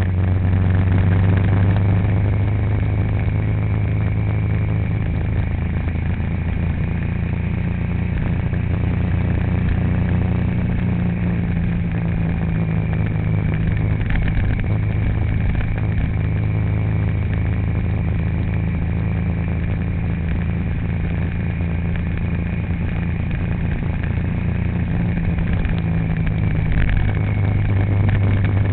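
A vehicle engine running steadily, a constant low drone with a faint high whine over it.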